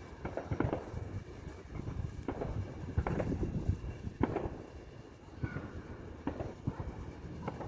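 A fireworks display: shells bursting in an irregular series of booms and cracks, with rumble between them and the loudest bangs about three and four seconds in.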